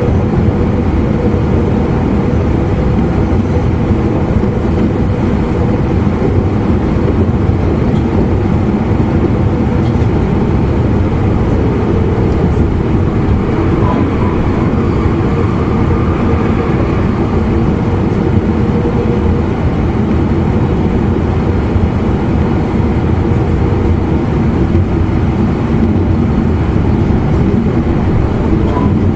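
Running noise inside an E259 series Narita Express motor car at speed: a steady rumble of wheels on rail and running gear, with a faint steady tone that fades out a little past the middle.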